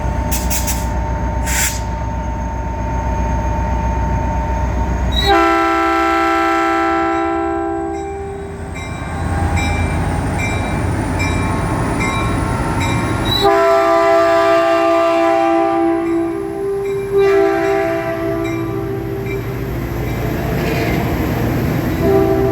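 A Caltrain commuter train sounds its horn in long, held blasts: the first about five seconds in, two more from about thirteen seconds, and another starting near the end. Under the horn is the steady rumble of the train running into the station.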